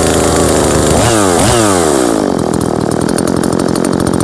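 Small two-stroke chainsaw running at high revs, blipped up sharply twice about a second in and easing back, then held steady.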